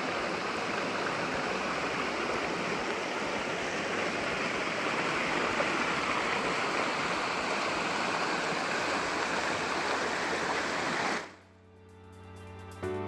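A small mountain stream rushing and splashing steadily, cut off abruptly about eleven seconds in; soft background music takes over near the end.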